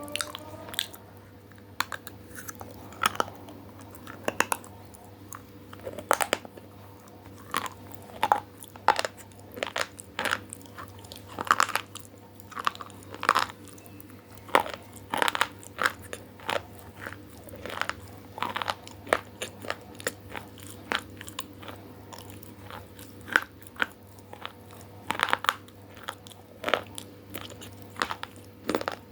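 Close-up crunchy eating: a person biting and chewing crisp food, with irregular loud crunches every second or so.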